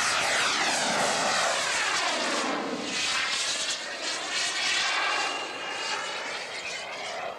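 Radio-controlled scale model aircraft in flight, a loud engine noise that starts suddenly and sweeps down and up in pitch as the aircraft passes by.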